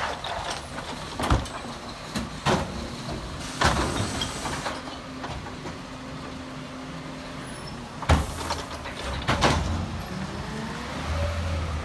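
Garbage truck running with its engine at a steady hum, while a series of loud, sharp bangs ring out at uneven intervals, five in all.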